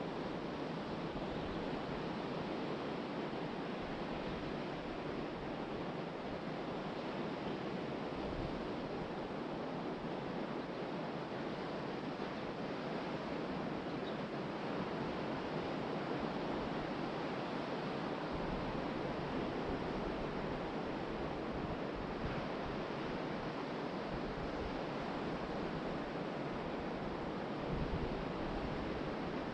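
Steady surf: ocean waves breaking and washing on a beach, with wind gusting on the microphone in low rumbles now and then.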